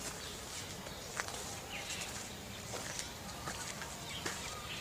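Birds giving short chirps every so often over steady outdoor background noise.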